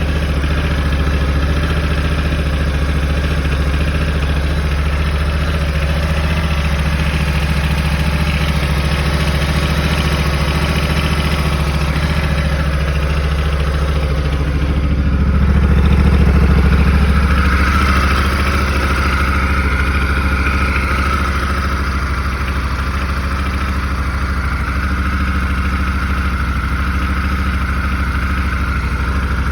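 A 2021 Honda Africa Twin DCT's parallel-twin engine idling after a cold start, with the rattle the owner is documenting. It grows briefly louder about halfway through, and a higher steady whine joins in just after.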